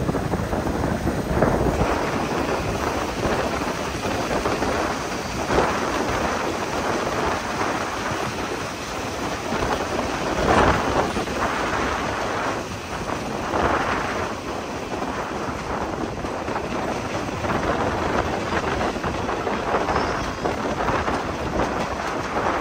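Steady rushing noise from an open window of a moving passenger train: wind on the microphone mixed with the rumble of the train running on the track, swelling now and then as it overtakes another train on the adjacent track.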